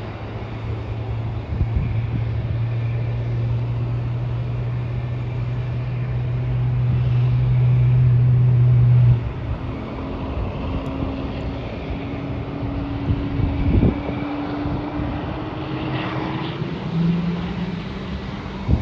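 Steady engine drone of aircraft and vehicles at an airport. It grows louder, stops abruptly about nine seconds in, and gives way to a steady, slightly higher hum, with a single knock about fourteen seconds in.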